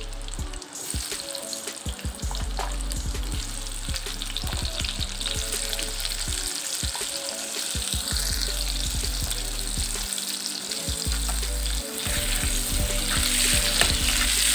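Pieces of ash gourd sizzling as they fry in hot mustard oil in a wok. The sizzle grows louder as more pieces go in, with scattered light clicks and knocks.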